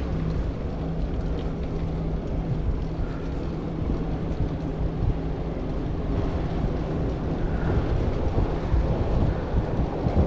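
Wind buffeting the microphone of a camera carried on a moving bicycle, a steady low rumble. A low hum sits under it for the first few seconds and then fades.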